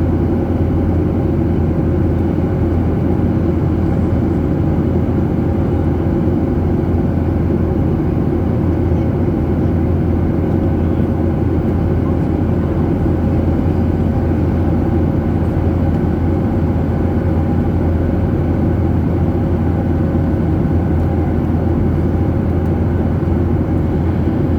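Steady drone of an airliner's jet engines and airflow heard inside the cabin, with a thin steady hum on top.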